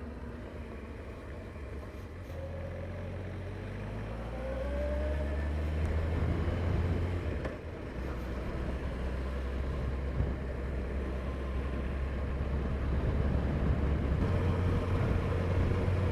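Honda CBF1000 motorcycle engine pulling away and accelerating. Its pitch rises over the first few seconds, dips briefly at a gear change about halfway through, then the engine pulls on louder.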